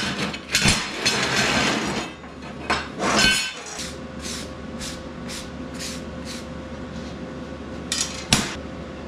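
Steel pieces and scrap clanking and clinking on a metal welding table as it is cleared off. About four seconds in comes a run of quick, even strokes, about three a second, and a steady hum starts. Two more sharp clanks follow near the end.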